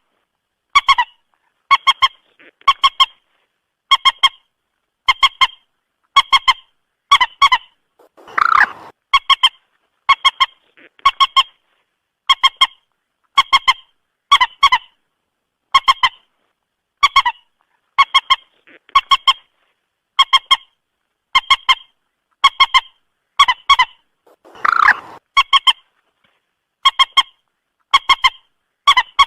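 Common moorhen calls: short, sharp honking notes in quick clusters of two or three, repeated about once a second, with a longer, harsher call about 8 seconds in and again near 25 seconds.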